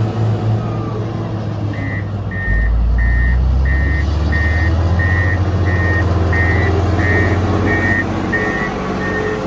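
Road grader's diesel engine running, with its reversing alarm beeping about twice a second from about two seconds in as the machine backs up; the engine gets louder at about the same time.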